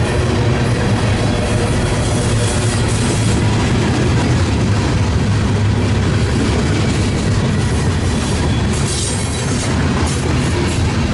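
Train passing close by: a steady, loud low rumble of engines and rolling cars, with brief bursts of higher metallic rail noise, the strongest about nine seconds in.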